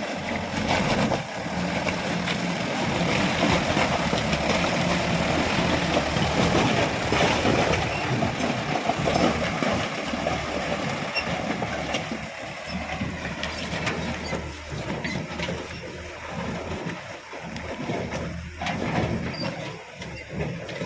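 Mitsubishi Canter 110 PS four-wheel-drive truck's diesel engine running hard under load, its 4x4 lock now set, louder for the first half and then easing off.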